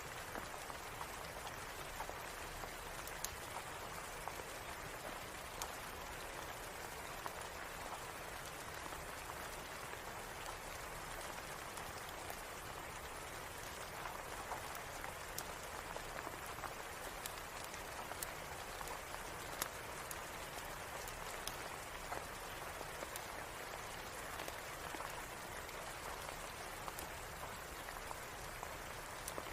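Steady rain falling, a constant even patter, with scattered sharp ticks and clicks dotted through it.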